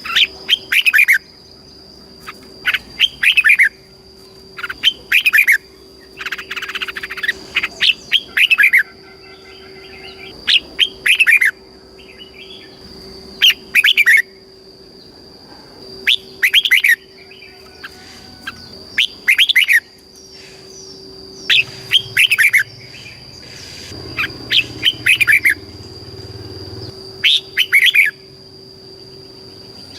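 Red-whiskered bulbul singing short, loud phrases over and over, one every second or two, each a quick run of falling notes. A faint steady high tone and a faint low hum run underneath.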